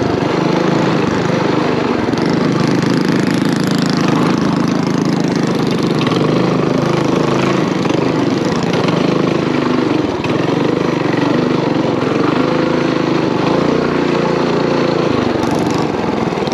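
Mini bike's small single-cylinder engine running steadily while riding. Its pitch shifts slightly and drops a little about fifteen seconds in.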